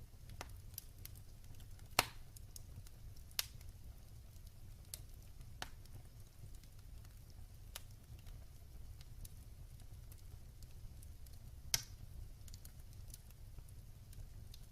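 Wood fire burning in a fireplace, crackling with scattered sharp pops over a steady low rumble; the loudest snaps come about two seconds in, a second and a half later, and near the end.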